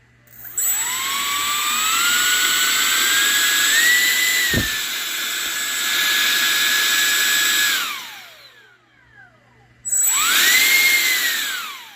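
A 30 mm electric ducted fan, the intake cooling fan of an RC car, spinning up with a rising whine, held at speed with a steady high-pitched tone on top, then winding down. It is spun up again briefly and winds down near the end.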